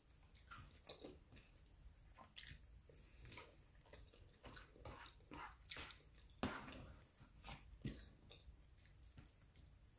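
Faint, close chewing and mouth sounds of a person eating, with scattered small clicks and taps; the loudest come about six and a half and eight seconds in.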